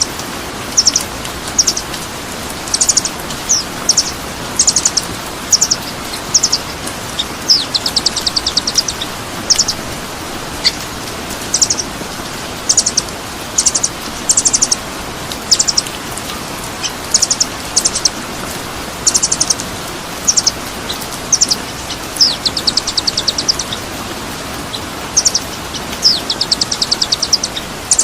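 Songbird calls from a masteran bird-training recording: short, high chirps about once a second, with a few fast rattling trills (about eight seconds in, around twenty-two seconds and near the end), over a steady rushing hiss.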